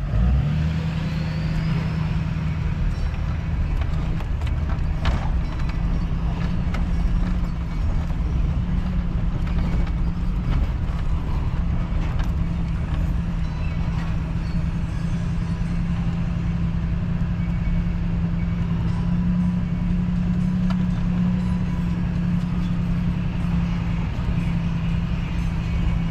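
Vehicle engine running steadily while driving, a constant low hum with no let-up.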